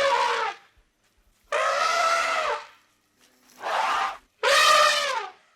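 An animal giving loud, drawn-out calls, each about a second long with a brassy ring, the pitch dropping at the end of each; four calls with short silent gaps between them.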